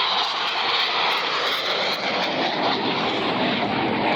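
Jet noise from Blue Angels Boeing F/A-18 Super Hornets making a pass overhead: a loud, steady rushing sound with no rise or fall.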